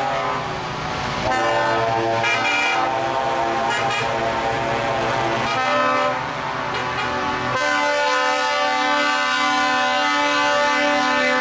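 Truck air horns sounding in long blasts, several horns of different pitches overlapping and changing; from about two-thirds of the way in, one long held multi-tone horn chord.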